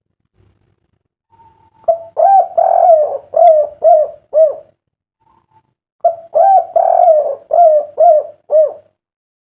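A derkuku dove (island collared dove) cooing its 'kuk 3' song twice: each phrase is a long rolling coo followed by three short separate coos, with a pause of about a second and a half between phrases.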